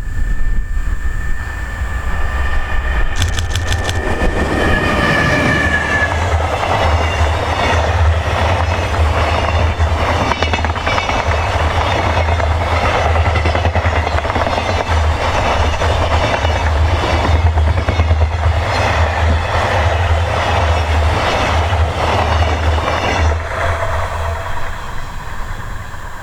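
Container freight train hauled by an EH500 electric locomotive passing at speed. A steady high whine in the first few seconds gives way to a long run of rhythmic wheel clatter over the rail joints as the wagons go by, fading away near the end.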